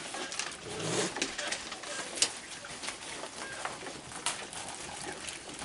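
A crowd of raccoons feeding close by: many scattered clicks and crunches of chewing and claws, with a brief low sound about a second in.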